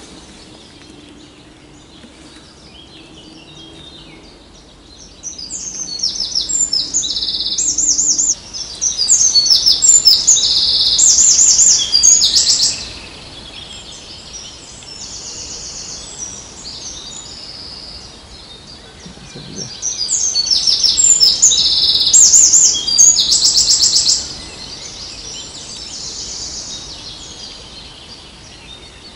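A songbird singing loudly in two long bouts of rapid, high, trilled phrases, starting about five seconds in and again at about twenty seconds in, with fainter birdsong and outdoor background noise between.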